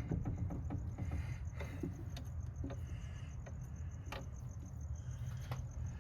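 Small scattered clicks and taps of hand work on a car battery terminal and its wiring, over a low steady hum.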